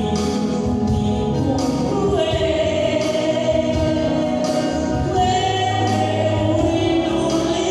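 Choir singing a gospel song with instrumental backing, voices holding long notes.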